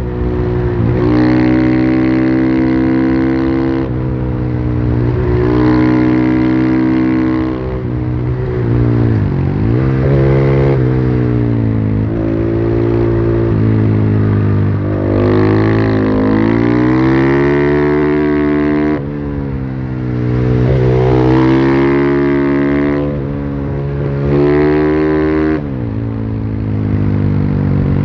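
Husqvarna FE501's single-cylinder four-stroke engine with its stock exhaust, heard from the bike while riding. The revs climb and fall back again and again, with sharp dips as the rider shifts and slows, about every few seconds.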